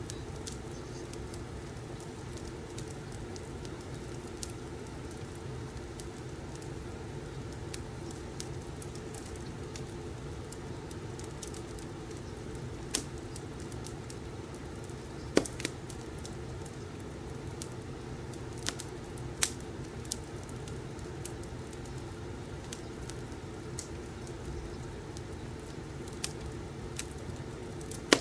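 Wood fire crackling in a fireplace: irregular pops and snaps over a steady low rumble, with the sharpest pops about 15 and 19 seconds in.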